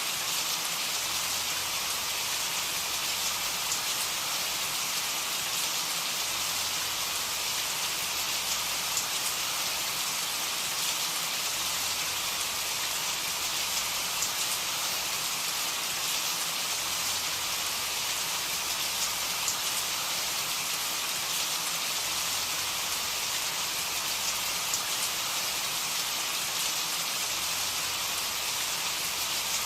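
Steady rain falling: an even, dense hiss with scattered faint drop ticks.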